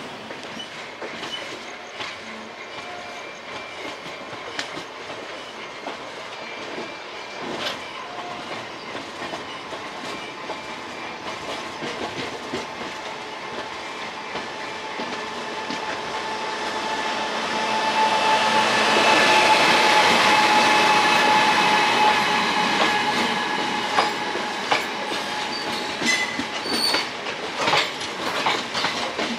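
Train wheels clattering over rail joints from a moving express, as a second passenger train approaches on the next track: the noise swells to its loudest a little past the middle, with a few steady ringing tones over the rush. Near the end the passing coaches go by close alongside with a fast, uneven clatter.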